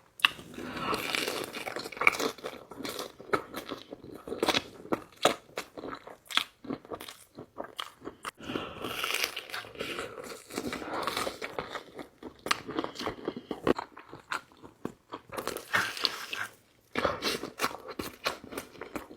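Close-miked eating of pepperoni pizza: crisp crust crunching under bites, then wet chewing, with many sharp crackles throughout.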